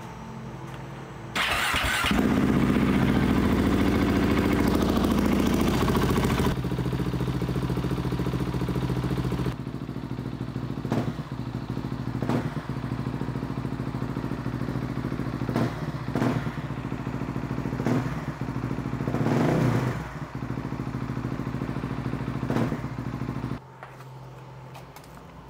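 2021 KTM 690 SMC R's single-cylinder LC4 engine, breathing through an FMF slip-on exhaust, started about a second in and run at a fast idle, then settling to a lower idle with the revs briefly raised a few times before it is switched off near the end. This is the first run after fresh oil, to cycle the oil through the engine.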